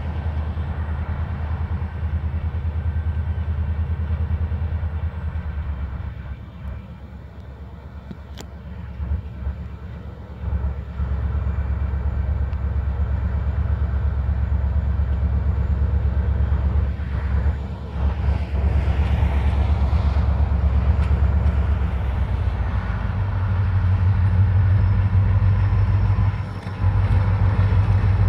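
EMD SD40-2 diesel-electric locomotive's two-stroke V16 diesel engine running with a deep, steady rumble. It grows quieter for a few seconds about a quarter of the way in, then louder again, and is strongest near the end.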